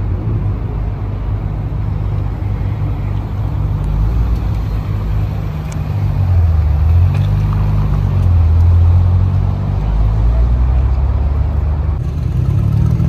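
Car engine running at low revs, a deep low-pitched rumble that wavers in pitch and swells louder about six seconds in and again around eight to nine seconds.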